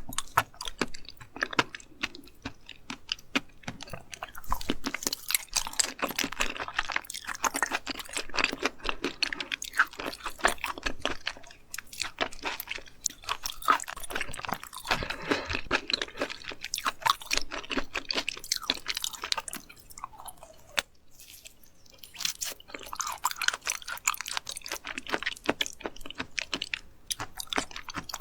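Close-miked chewing and crunching of raw seafood, wet crackles and clicks coming in bouts with short pauses between mouthfuls.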